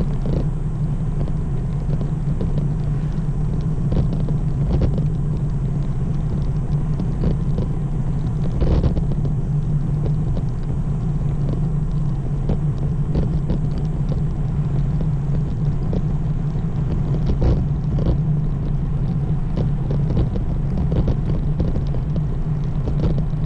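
Steady rumble of a road bike being ridden on pavement, tyre and wind noise on the camera's microphone, with scattered short knocks and rattles from bumps in the road.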